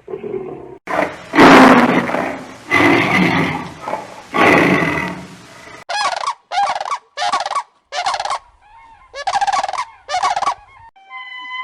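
Three loud, harsh animal calls of about a second each, then a run of six short, warbling turkey gobbles at even spacing.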